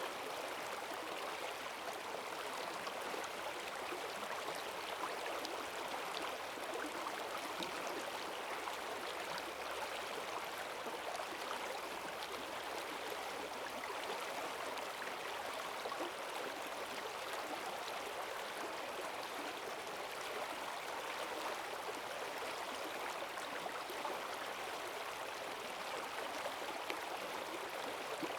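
Forest stream swollen after heavy rain, running fast over stones: a steady rush of water with fine gurgling and splashing.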